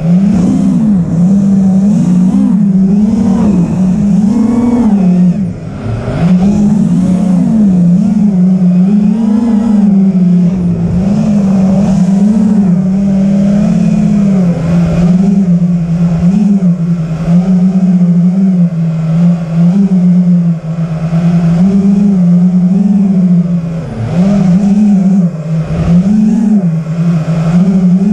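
A loud engine running continuously, its pitch rising and falling every second or two with a few brief dips.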